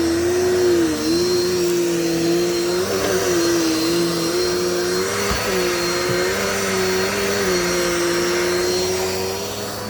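Dirt Devil Multi-Surface vacuum cleaner running, its motor giving a steady whine with rushing air, which dips briefly in pitch a few times.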